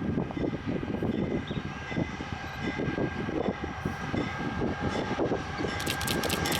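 Freight train rolling past, its wagons' wheels knocking and rumbling on the rails. A run of sharp, rapid clicks starts near the end.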